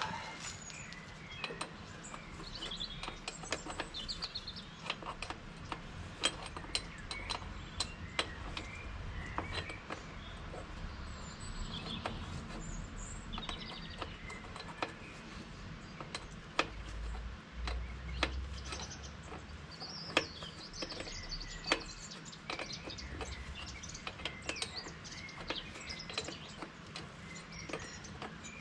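Birds chirping, with irregular sharp metallic clicks and taps of hand tools working on a hydraulic hose fitting.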